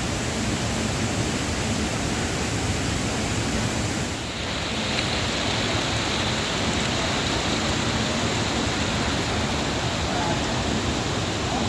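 Waterfall: a steady, loud rush of falling water, dipping briefly about four seconds in and then sounding a little brighter.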